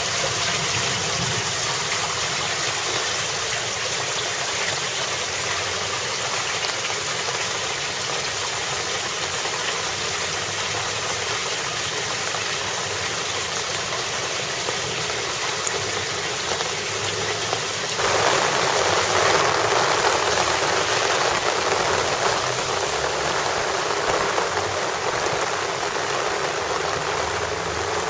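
Heavy downpour with rainwater running off the road into a concrete collecting gutter, a steady rush of water. About two-thirds of the way through it changes abruptly to a louder, fuller rush.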